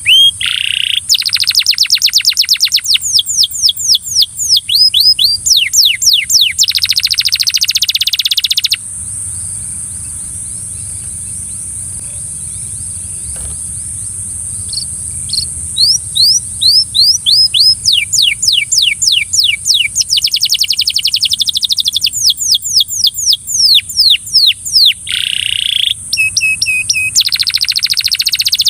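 Belgian canary singing in rapid trills of repeated down-sweeping notes. It stops for about six seconds a third of the way in, then starts again. A steady high hiss runs underneath.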